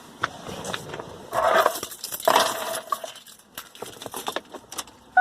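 Light metallic clinks and handling noises: scattered sharp clicks, with two short rustling scrapes about a second and a half and two and a half seconds in.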